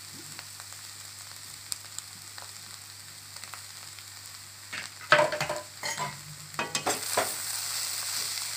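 Shredded cabbage, carrot, egg and capsicum strips sizzling in a small kadai. From about five seconds in, a spatula knocks and scrapes against the pan as the stir-fry is turned. The sizzle grows louder as the vegetables are stirred.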